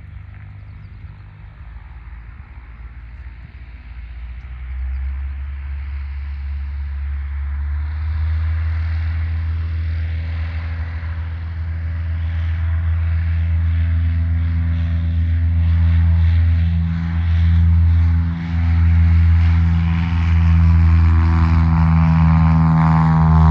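Light propeller aircraft with a piston engine approaching, its engine tone growing steadily louder and loudest near the end.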